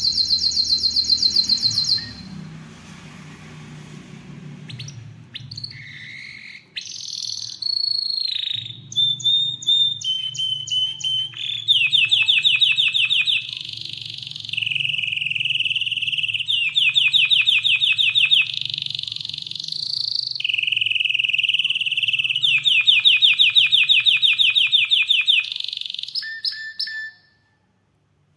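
Domestic canary singing a long varied song: fast rattling trills alternate with held whistled notes, after a quieter stretch near the start. The song stops abruptly about a second before the end.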